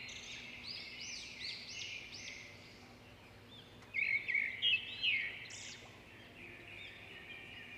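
Small birds chirping: many short, quick chirps, with a louder flurry about four seconds in.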